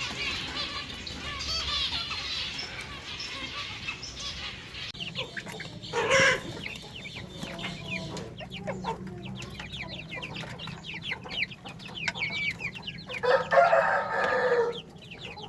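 Many caged birds chirping and calling together: a dense chatter of high chirps, a loud call about six seconds in, and a longer, lower call about thirteen seconds in that lasts over a second.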